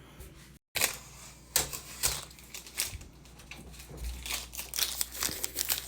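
Plastic protective film and tape being peeled off a new refrigerator and crinkled, a run of irregular sharp crackles and clicks.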